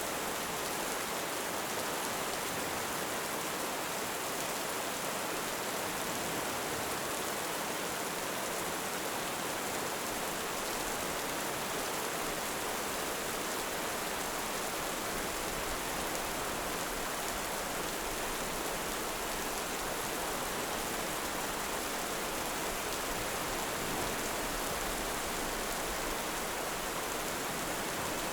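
Heavy rain falling steadily, an even hiss without breaks or swells.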